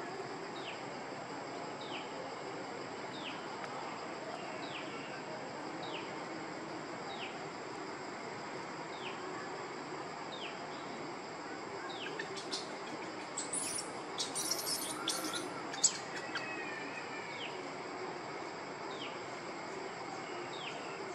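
A bird repeating a short, downward-sliding whistle about once every second and a half, over a steady high-pitched whine. A flurry of quicker, higher chirps comes just past the middle.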